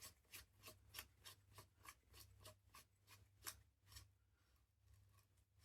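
Faint, even clicking, about four clicks a second, from a mechanism being worked by hand during reassembly of a spring air rifle; the clicks thin out after about four seconds.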